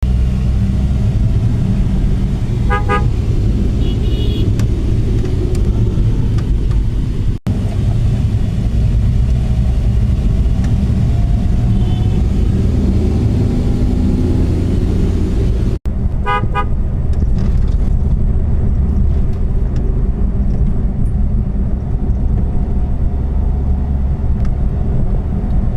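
Road traffic with a steady low rumble of vehicles on the move, and vehicle horns tooting in short blasts about four times. The sound cuts out for an instant twice.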